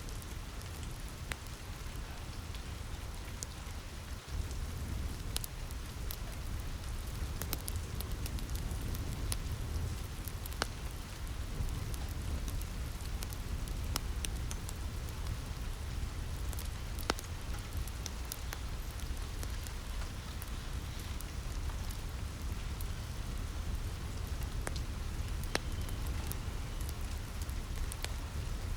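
Steady rain falling on a roof, with a low rumble underneath and scattered sharp crackles and pops from a wood fire.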